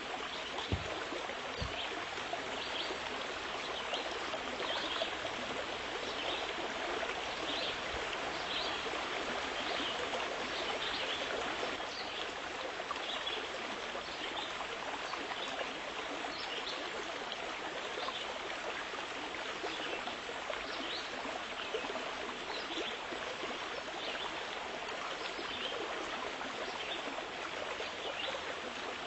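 Steady rushing of flowing water, like a stream, with small bright splashy flecks throughout.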